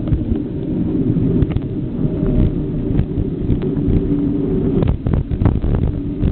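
Wind buffeting the microphone on a moving bike: a loud, steady low rumble, with a cluster of sharp knocks or rattles about five seconds in.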